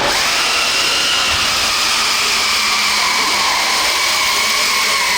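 Electric motor and gear drive of an RC pulling truck or tractor, whining steadily at high speed under the load of the weight sled. The pitch sags a little in the first few seconds, then holds.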